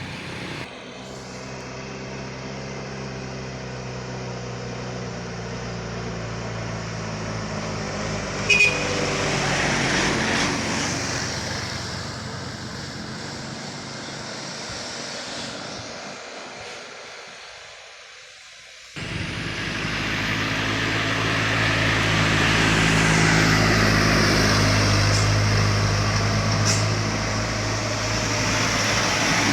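Heavy diesel truck engines labouring at full throttle on a climb, one passing and fading, then another coming up loud after a sudden switch about two-thirds of the way in. A brief sharp sound stands out about a third of the way in.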